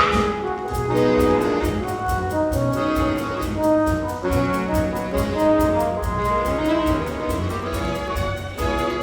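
Musical-theatre orchestra playing a brass-led number, with held notes over a steady low beat.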